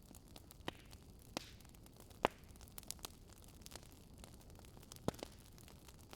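Wood fire crackling: irregular sharp pops and snaps over a faint steady hiss, the loudest pop a little over two seconds in.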